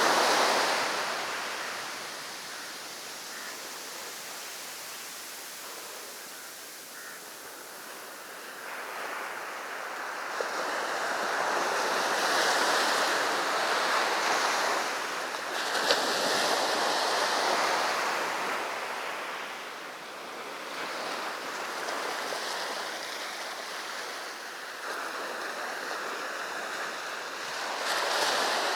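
Sea surf breaking and washing up the beach, rising and falling in long surges: loud at first, quieter for several seconds, then swelling again for much of the middle and once more near the end.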